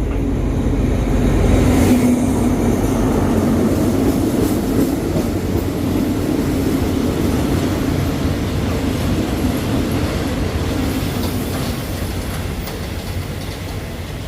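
Train running on the track with wheels clacking over the rails, loudest about two seconds in and then gradually quieter.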